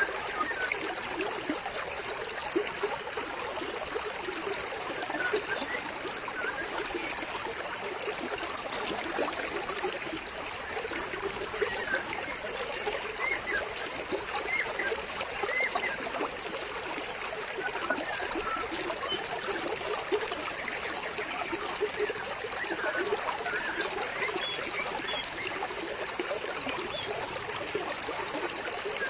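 Small stream of water flowing and trickling steadily over stones, with a continuous babbling and gurgling.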